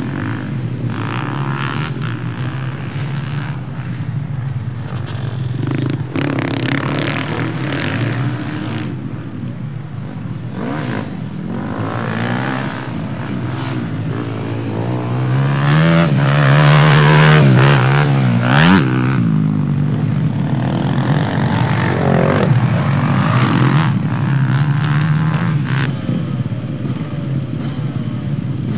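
Motocross bikes running on the track, their engines revving up and down in pitch through the gears. They are loudest from about 16 to 19 seconds in, as a bike passes close.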